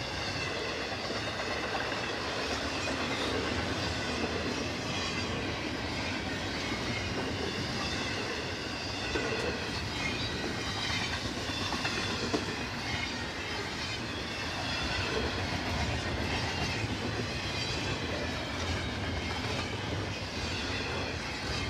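Freight train cars rolling past with a steady rumble and wheels clicking over rail joints, with faint high wavering tones from the wheels above it.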